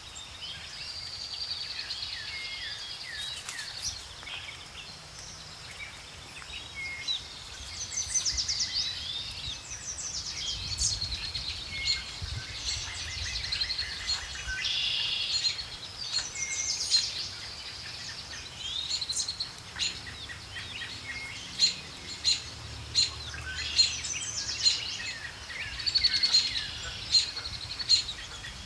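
Several wild birds singing and calling together, a busy mix of chirps, trills and short whistled notes, over a faint low background rumble.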